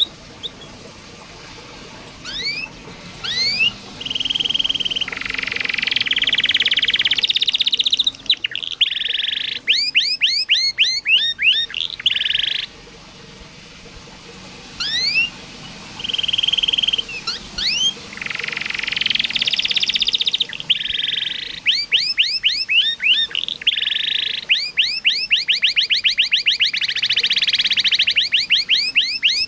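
Domestic canary singing: fast runs of rising whistled notes, steady trills and rattling rolls. It sings two long phrases, with a short pause about halfway through.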